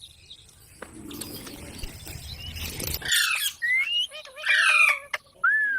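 Pet green parrot squawking twice, each harsh call followed by a short rising whistle, after a couple of seconds of soft rustling.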